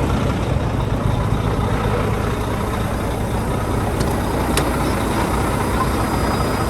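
Semi truck's diesel engine idling with a steady low rumble, and a brief click a little over halfway through.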